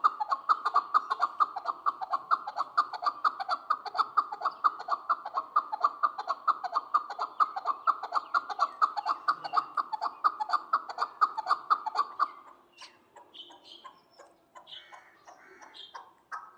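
Chukar partridge calling: a fast, steady run of repeated chuck notes, about five a second, that stops about twelve seconds in. A few scattered, softer, higher chirps follow.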